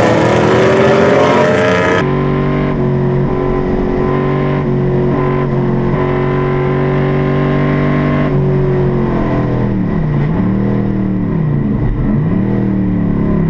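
Racing car engine at high revs, its pitch climbing in the first two seconds, then an abrupt change to a steady, held engine note. Near the end the revs dip and pick up again several times.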